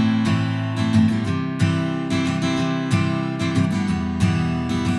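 Taylor Builder's Edition 324ce acoustic guitar strumming chords in a steady rhythmic pattern.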